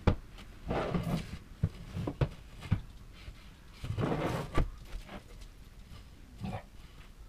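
Bookcase parts being handled during assembly: irregular knocks and clicks, with two longer scraping, rustling stretches about a second in and about four seconds in.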